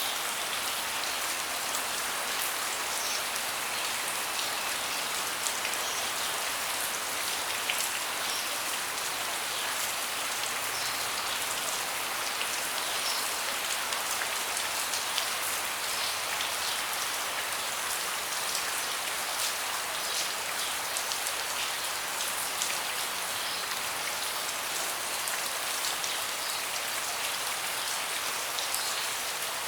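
Steady rain falling on a deck, with many single drops ticking sharply among the even hiss.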